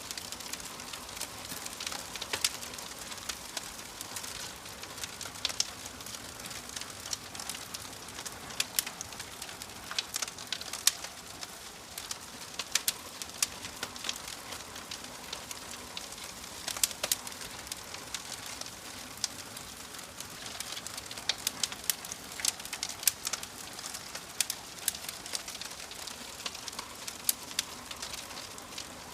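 Wood fire crackling with frequent irregular sharp pops over a steady soft hiss.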